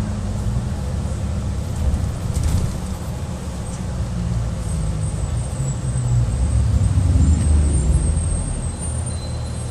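Steady low rumble of a moving vehicle, heard from inside a car riding a bumpy road.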